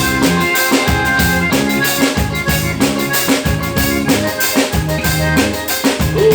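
Live band music at a soundcheck: a drum kit keeping a steady beat under a bass line that moves between held notes.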